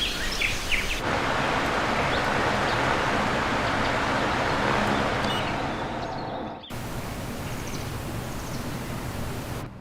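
Steady rushing noise like wind or moving air, with a few faint bird chirps above it. The noise jumps abruptly in level and character about a second in, again past the middle, and near the end.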